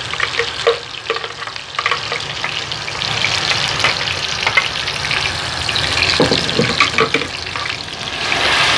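Blended onion paste sizzling in hot oil in a kadhai, with a steel ladle clinking and scraping against the pan. The sizzle gets louder near the end as the paste is stirred in.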